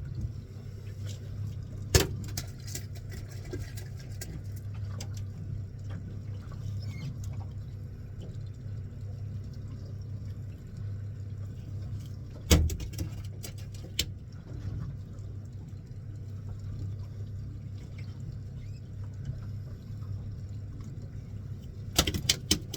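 Fishing boat's engine running with a steady low hum, broken by a few sharp knocks and clatters on board: one about two seconds in, a louder one about twelve and a half seconds in, and a quick cluster near the end.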